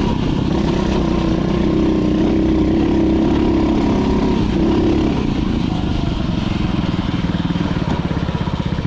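Dirt bike engine running at steady revs, then dropping back to a low, evenly pulsing idle about five seconds in.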